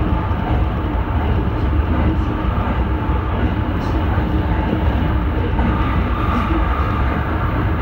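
Tsukuba Express electric train running at speed, heard from inside the front car: a steady rumble of wheels on the rails.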